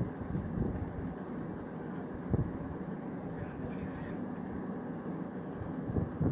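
Small boat under way: a steady low engine rumble mixed with wind and water noise, with two short thumps, one about two seconds in and one near the end.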